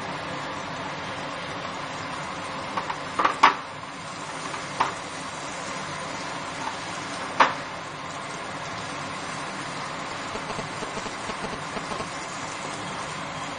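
Chicken curry frying in oil in a pan, with a steady sizzle. A spoon knocks against the pan several times in the first half while it is stirred.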